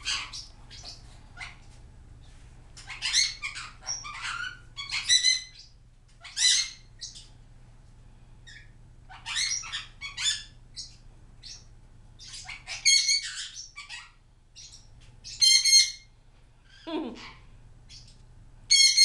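Pet parrots chirping and squawking: many short, high calls in clusters with brief gaps between, and one lower, gliding call near the end.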